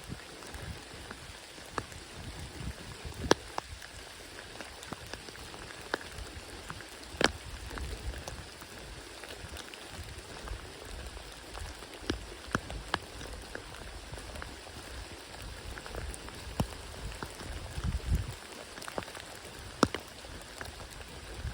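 Rain falling steadily, with single heavier drops striking close by every second or two.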